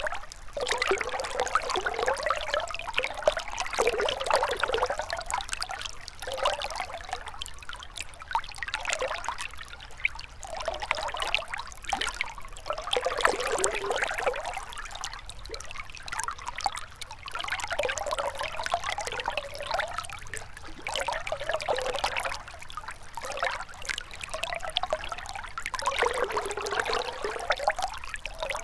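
Shallow river water trickling and babbling, the flow swelling and ebbing every couple of seconds.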